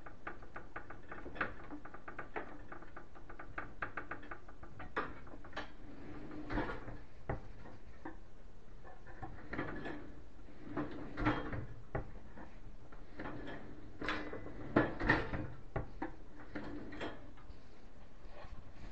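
Clicks and knocks of hands at work on a kitchen cabinet's pull-out basket and its slide rails. It starts with a quick run of light clicks, then scattered knocks and clatters, the loudest a few about three quarters through.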